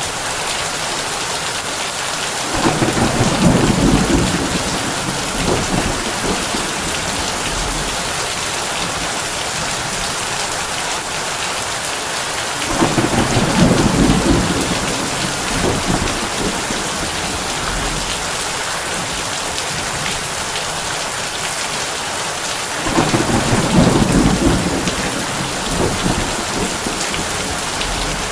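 Heavy rain on a tin roof, a steady hiss, with three rolls of thunder about ten seconds apart, each rumbling for a couple of seconds.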